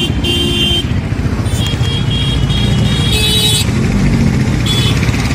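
Street traffic: a low, steady engine rumble, with four short horn honks at intervals.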